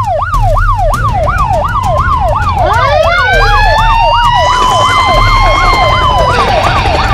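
Emergency-vehicle sirens: a fast yelping siren sweeping up and down about two to three times a second, layered with slower wailing siren tones that rise and then hold, over a low steady hum.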